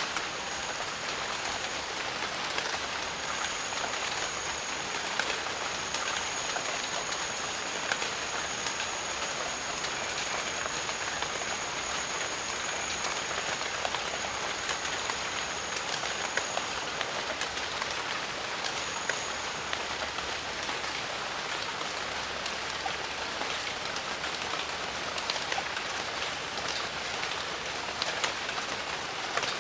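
Steady rain falling, a dense even hiss with many close individual drops striking. A thin, steady high-pitched tone runs through about the first half and returns briefly later.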